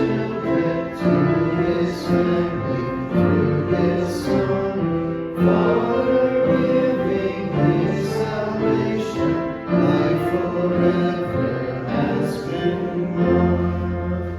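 A group of voices singing a hymn with instrumental accompaniment. The voices stop near the end while a low accompanying note is held on.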